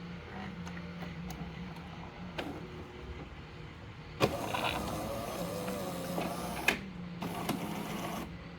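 Jura E8 fully automatic coffee machine running with a steady motor hum. About four seconds in, a sharp click starts a louder, noisier working stretch of about two and a half seconds, which ends with another click.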